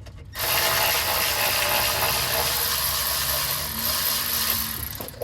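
Power ratchet running steadily for about four and a half seconds, backing out a transmission pan bolt; it starts just after the beginning and stops shortly before the end.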